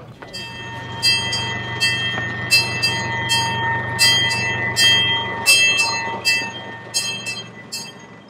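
Train bell clanging repeatedly, about one or two strikes a second, over the steady running sound of the train.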